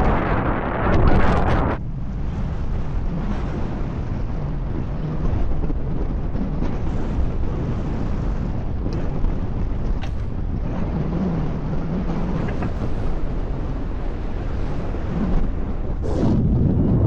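Wind rushing over the microphone of a moving road bike rider: a steady low rumble, with stronger, brighter gusts in the first two seconds and again near the end.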